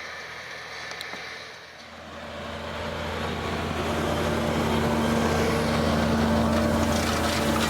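Tractor engine running with a steady low hum, growing louder from about two seconds in and then holding steady.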